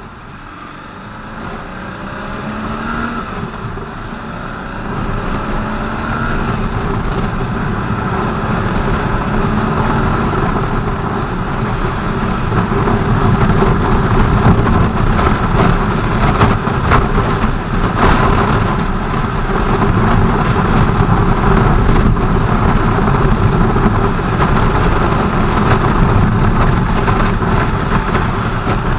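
BMW R 1200 GS motorcycle's flat-twin engine pulling away and accelerating, rising in pitch and growing louder over the first few seconds. It then settles into riding at speed, under a steady loud wash of wind and road noise.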